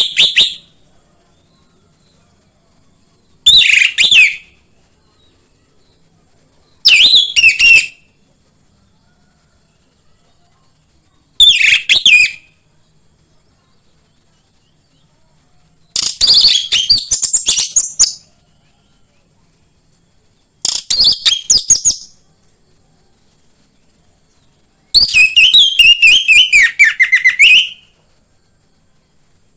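Orange-headed thrush (anis merah) singing: seven loud, intricate song phrases of one to three seconds each, separated by pauses of two to four seconds. A faint steady high hiss runs underneath.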